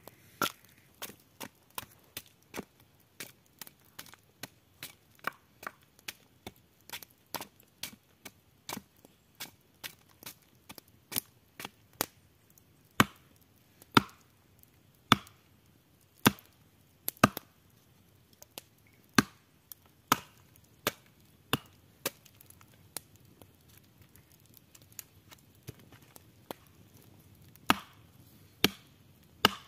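Wood being chopped: a long run of sharp strikes, about one to three a second, some light and some heavy, with the heaviest blows in the middle and near the end.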